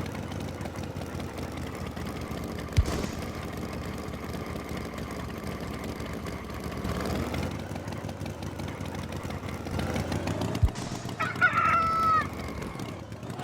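A rooster crows once near the end, over a steady low rumble, with a sharp knock about three seconds in.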